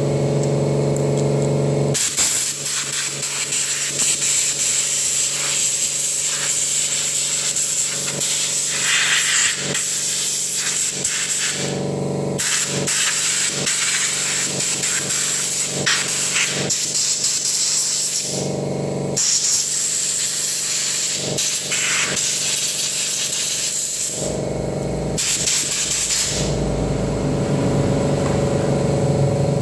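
Compressed air from a blow gun hissing in long blasts over the inside of a Soundcraft EFX12 mixer, blowing out built-up dust; the blasts break off briefly several times. A steady hum is heard before the first blast, about two seconds in, and again after the last one near the end.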